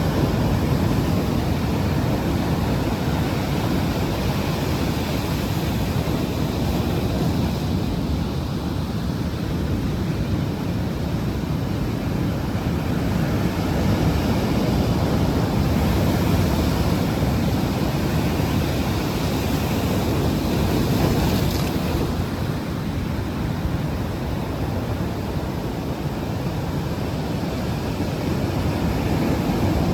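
Strong ocean surf breaking and washing as white water, a steady rush of water, with wind buffeting the microphone.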